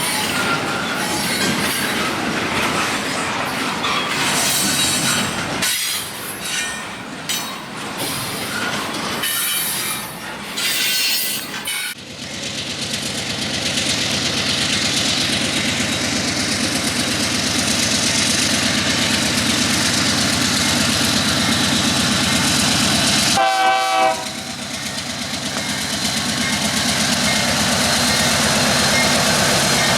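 Union Pacific freight train passing on the line, its wheels clattering and squealing over the rails, then settling into a steady running noise. A short horn note sounds once, about three-quarters of the way through.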